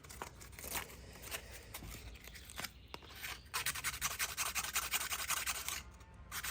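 Hand sanding with sandpaper on the edges of a metal shaft key, beveling it so it slides into the keyway. A few scattered scrapes come first, then rapid back-and-forth strokes start a little past halfway and break off briefly near the end.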